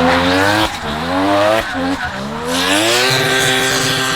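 Drift car engine revving hard, dropping off briefly twice in the first two seconds, then climbing and holding at high revs over a steady hiss of tyre noise.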